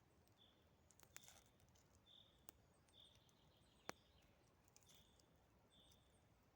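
Faint, quiet woodland ambience: a bird repeats a short high call roughly once a second, with fainter higher chirps. A few sharp clicks fall among the calls, the loudest about four seconds in.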